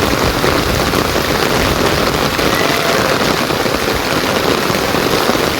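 Heavy rain pouring down, a loud, steady, dense patter and hiss.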